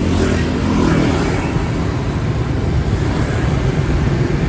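A motorbike running while riding, with a loud steady rumble and wind rushing over the microphone.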